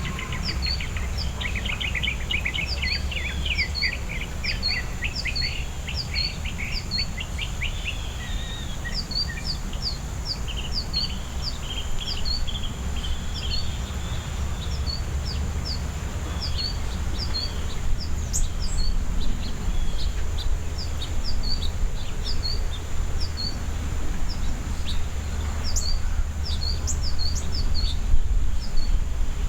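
Backyard songbirds calling: short high chirps repeat about twice a second throughout, and a fast, lower run of notes sounds for the first eight seconds. A steady low rumble lies underneath.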